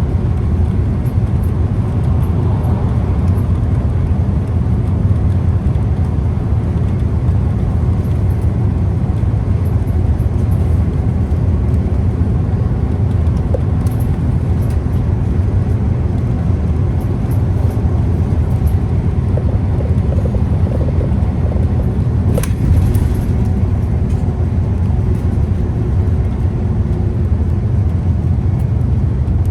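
Scania CK320UB Citywide city bus engine and running noise, a steady low rumble as the bus drives along. A single sharp knock or rattle about three quarters of the way through.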